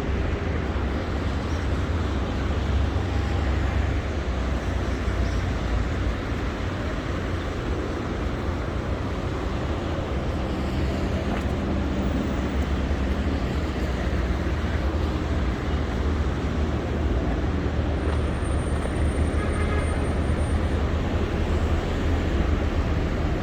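Steady street traffic noise: a constant low rumble of vehicle engines under a broad hiss of tyres on wet road.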